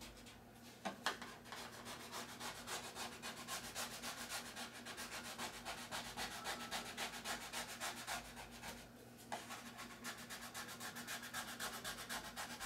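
A squeegee rubbed in quick, repeated short strokes over a self-adhesive insignia, burnishing its edges and corners down; the strokes pause briefly about two-thirds of the way through.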